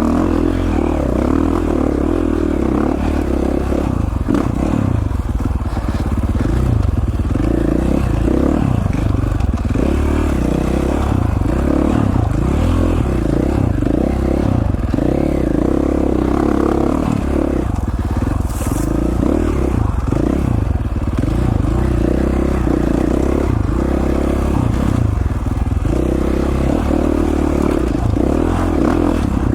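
Single-cylinder four-stroke dirt bike engine, a KTM 450 XC-F, working under constantly changing throttle on rough single-track, with scraping and clattering from the trail.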